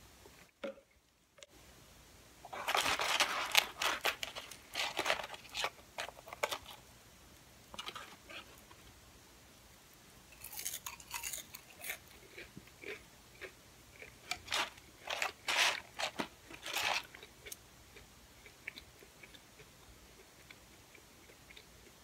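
Close-miked crunching and chewing of crispy curly fries: clusters of loud crisp crunches come in several spells, with quieter chewing in between and in the last few seconds.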